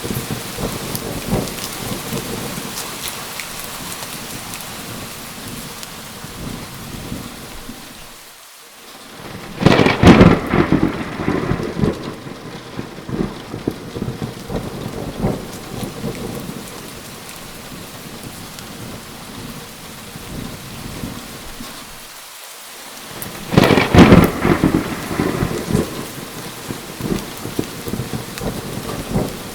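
Steady heavy rain with two loud claps of thunder, one about a third of the way in and another about two-thirds through, each rumbling away over a few seconds.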